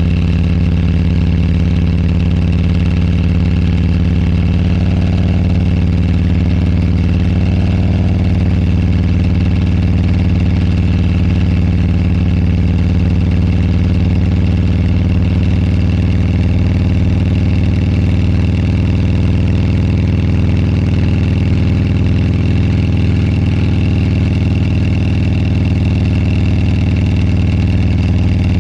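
Motorcycle engine running steadily while riding, picked up by a clipped-on lavalier microphone.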